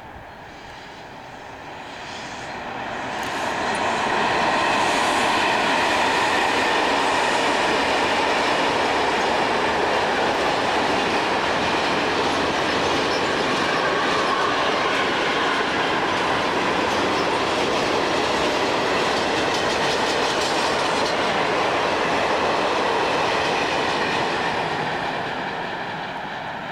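Train passing on the line, its wheels running on the rails. The sound swells over the first few seconds, holds steady for about twenty seconds while the train goes by, and fades near the end.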